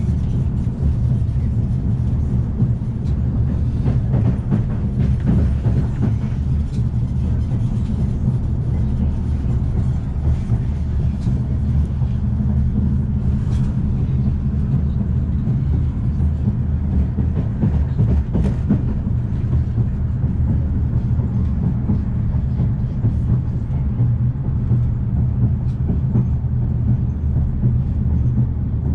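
Afrosiyob high-speed train running, heard from inside a passenger car: a steady low rumble and hum with a few faint clicks now and then.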